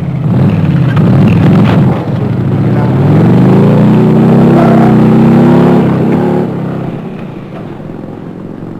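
A car engine revving and accelerating, its pitch climbing for a few seconds before the sound fades away.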